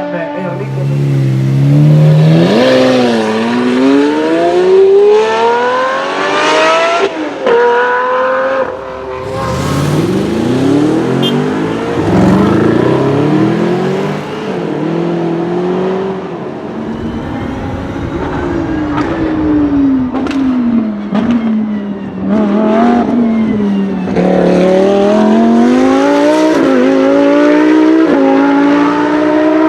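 A Lamborghini Murciélago's V12 on a Prior Design build accelerating hard, its pitch climbing through the gears with sharp breaks at the shifts, then easing and picking up again. About 17 seconds in it gives way to a Lamborghini Huracán Super Trofeo race car's V10, which dips and then climbs in pitch as it accelerates.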